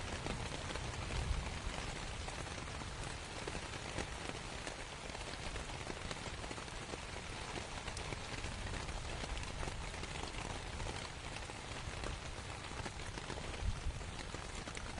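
Steady rain pattering on a canvas tent, a dense hiss of many small drop ticks, over a steady low rumble.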